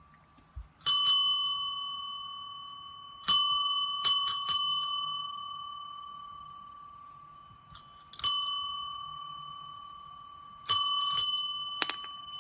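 A small metal bell struck about eight times, each ring fading slowly. There are single strikes, a quick run of three about a third of the way in, and a couple of close strikes near the end.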